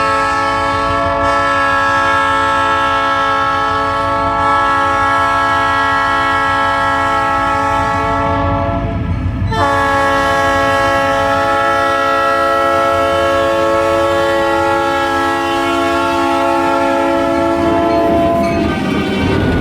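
Diesel locomotive air horn on Kiamichi Railroad SD40-2 units sounding two long blasts of a steady multi-note chord, under a low rumble of the train. Near the end the horn stops and the noise of the passing train rises.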